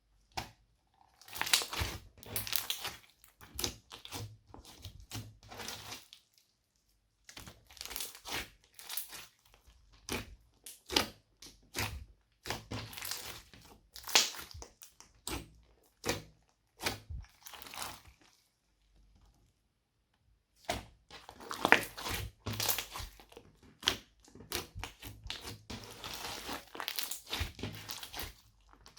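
Slime being squished, poked and stretched by hand: bursts of sticky crackling and popping, pausing twice.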